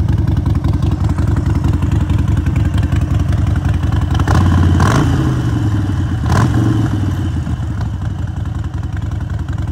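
Harley-Davidson Sportster 1200's air-cooled V-twin idling through Vance & Hines exhaust, with a quick throttle blip a little under halfway through and a second, shorter one just after.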